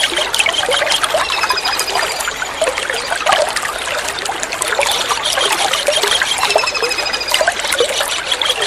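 Water trickling and splashing throughout, over which a kingfisher gives a rapid, high trilled call of slightly falling notes twice, about a second and a half in and again near the end.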